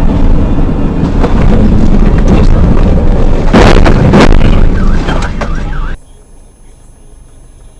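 Dash-cam recording of a road crash: loud rumbling vehicle and road noise with two heavy bangs of impact about three and a half and four seconds in, cutting off abruptly about six seconds in.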